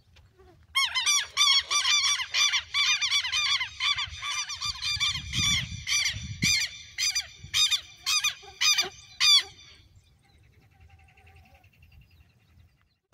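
A bird giving a long series of loud honking calls, about three a second at first and spacing out later, stopping a little over two-thirds of the way through.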